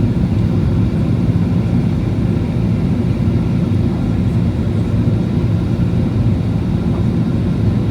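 Steady low rumble of a Boeing 737 airliner in flight, its engines and airflow heard from inside the cabin.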